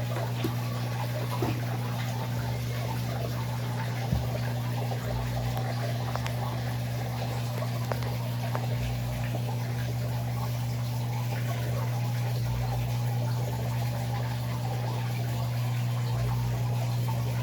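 Electrolux LAC13 top-loading washing machine draining: its drain pump hums steadily while water gurgles and trickles through it, with a deeper throb that comes and goes every few seconds.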